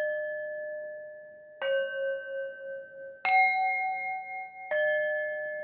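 Struck metal bells ringing out, with a new strike about every one and a half seconds. Each strike sounds a few clear, lingering tones that fade under the next one. The strikes alternate between a few different pitches.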